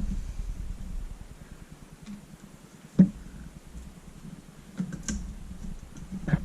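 Small clicks and taps of a screwdriver backing out the Phillips screw on a paintball marker's top rail, with one sharp click about three seconds in, over low handling rumble.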